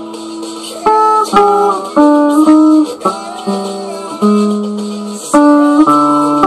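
Guitar playing an instrumental passage: picked chords and single notes struck about twice a second, each ringing on until the next.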